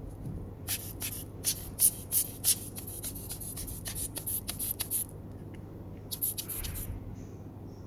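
Soft-bristled brush swept in quick short strokes, about four or five a second, across the inside of an opened tablet to clear dust. It brushes for about four seconds, pauses, then brushes again briefly near the end.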